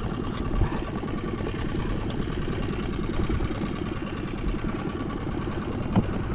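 Small fishing boat's outboard motor idling steadily, with a faint knock or two.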